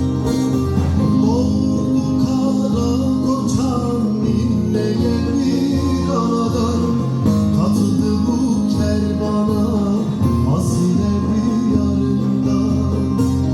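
A türkü, a Turkish folk song, played on plucked string instruments over a steady bass, with a voice singing the melody.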